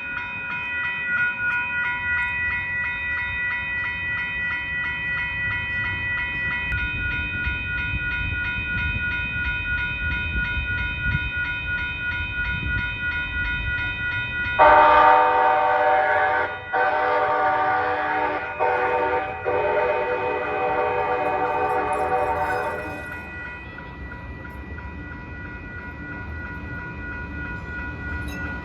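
Grade-crossing warning bells ringing steadily over the low rumble of a passing train. About halfway through, a train horn sounds three blasts back to back, about eight seconds in all, and then the bells ring on.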